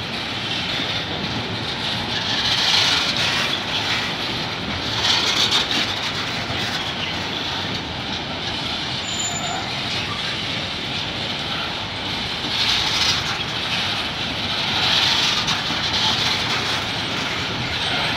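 Empty bauxite train's steel gondola wagons rolling past: a steady rolling rumble and wheel noise, with a higher hiss that swells and fades every few seconds as the wheelsets go by.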